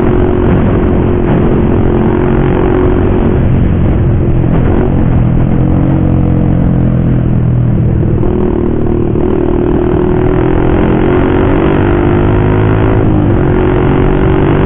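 Motorcycle with a loud aftermarket racing exhaust, running under way. The engine note holds steady, falls about four seconds in, climbs gradually, then drops again near the end as the throttle is eased and opened.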